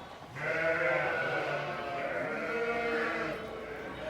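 Sheep bleating in the barn: one long call of about three seconds, starting shortly after the beginning.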